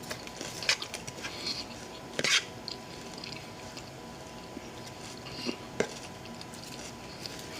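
A few light clicks and knocks of a utensil against a plate or food container while eating, spaced out, with the loudest, slightly longer one about two seconds in.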